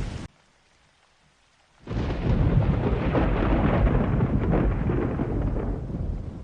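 A roll of thunder: a sudden deep rumble that starts about two seconds in, lasts about four seconds and fades away near the end.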